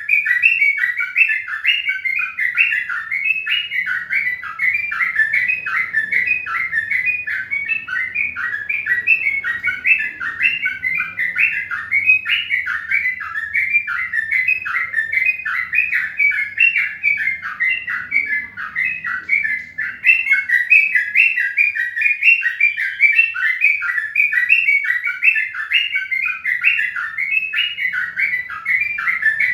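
Birds chirping: a dense, unbroken stream of short, quick chirps, several a second, at a steady level.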